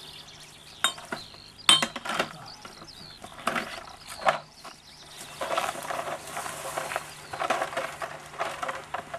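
Glass beer bottles clinking and knocking as they are gathered into a beer crate: a few separate sharp clinks in the first half, then a denser run of knocks and rustling.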